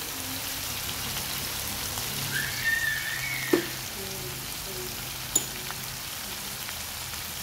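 Frog meat frying in a hot wok, a steady sizzle. A short whistle-like tone sounds about two and a half seconds in, and two sharp clicks come about three and a half and five and a half seconds in.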